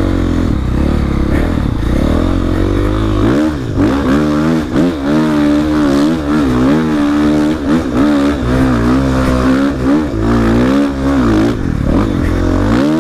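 450cc four-stroke dirt bike engine pulling up a hill. It runs low and steady for the first few seconds, then revs higher, with the pitch rising and falling over and over as the throttle is worked.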